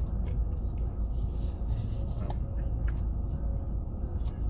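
Steady low rumble of road and engine noise inside the cabin of a moving 2017 Ford Fusion, with a few faint clicks.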